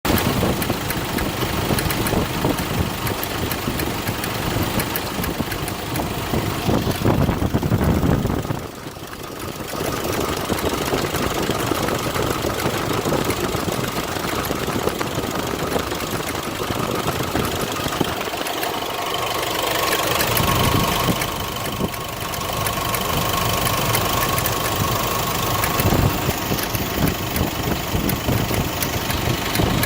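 Nissan Navara diesel engine running with a knock from the alternator's overrunning clutch pulley, the sign of a failing one-way clutch in the alternator pulley. The sound dips briefly about nine seconds in.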